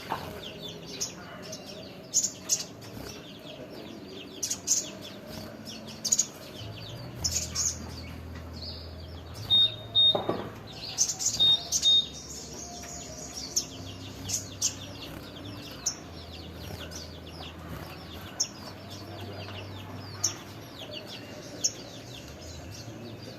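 Small songbird singing a rapid, chattering song of short, sharp chirps and scratchy trills, with louder calls scattered throughout. A faint low hum runs underneath in parts.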